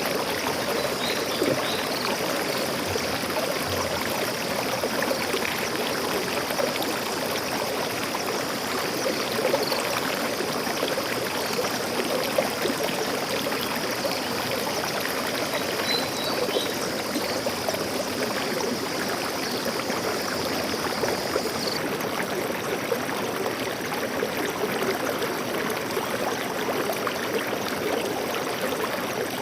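Steady rush and trickle of a forest stream's flowing water, with a few faint high bird chirps about a second in and again about halfway.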